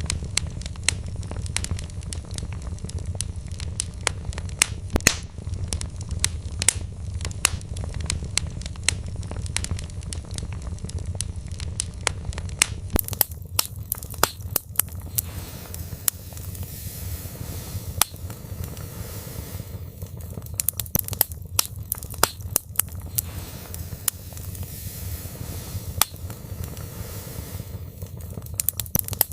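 Wood fire crackling in a fireplace: frequent sharp pops and snaps of burning logs over a steady low rumble of flames. A brighter hiss joins in about halfway through.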